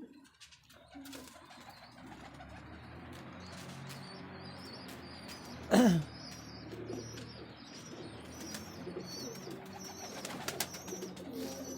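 Pigeons cooing in a loft, with a distant call to prayer from a mosque loudspeaker faintly behind them. About six seconds in comes one short, loud call that slides sharply down in pitch.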